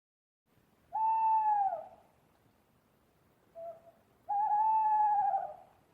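An animal calling twice: two long, even-pitched calls that drop in pitch at the end, with a short faint call between them.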